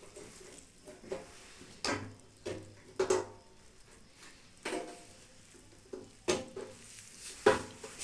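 Irregular metallic clinks and knocks, about seven over several seconds, some briefly ringing, as the cooling fan and its metal parts are handled and seated in a microwave oven's sheet-metal body.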